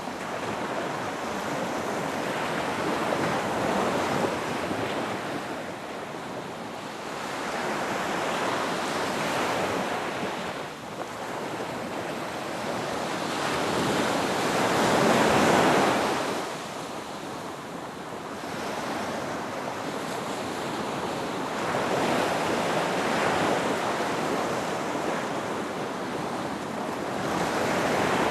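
Ocean waves breaking on a beach, a steady wash of surf that swells and ebbs every few seconds, loudest about halfway through.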